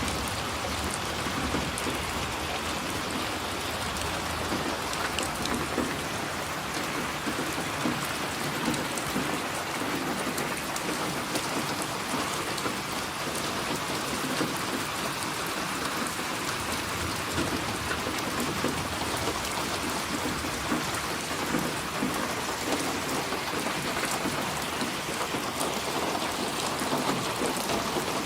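Steady rain falling, an even hiss with fine pattering drops throughout.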